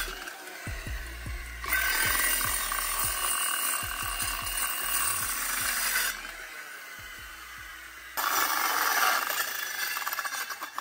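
Restored Skilsaw worm-drive corded circular saw cutting through wood, heard in several edited segments that start and stop abruptly.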